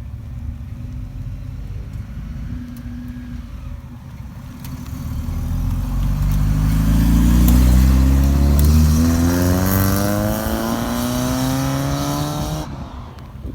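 A car engine accelerating past, its note rising steadily as it builds, loudest a little past halfway. The sound cuts off abruptly near the end.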